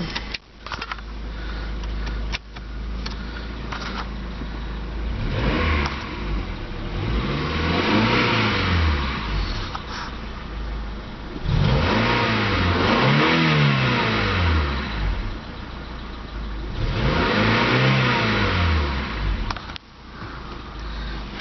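A 1997 Honda Accord's 16-valve four-cylinder engine idling and revved in neutral three times. Each rev rises and falls back to idle over a few seconds.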